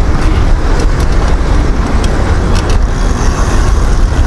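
Wind rumbling on the camera microphone while riding a bicycle, with a few faint clicks.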